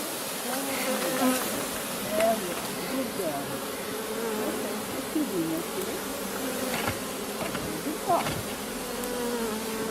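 Honeybee swarm buzzing around and at the entrance of a hive as the bees walk in, a dense hum of many wingbeats with pitches drifting up and down as single bees fly close by.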